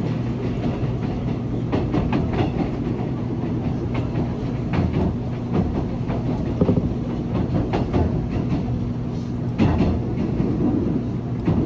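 Seoul Subway Line 1 electric commuter train running at speed, heard from inside the car: a steady low rumble and motor hum, with irregular sharp clacks as the wheels cross rail joints.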